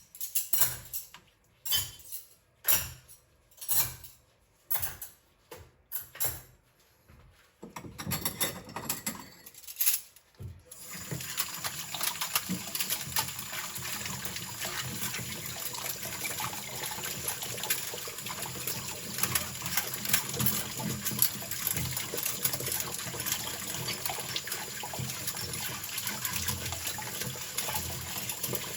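Cutlery clinking in a quick series of sharp metallic knocks, then about ten seconds in a kitchen sink tap starts running steadily as the cutlery is rinsed.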